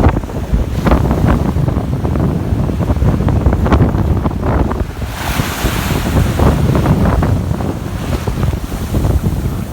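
Wind buffeting the microphone over the sound of surf on the beach, in uneven gusts. About five seconds in, a brighter hiss of washing waves rises.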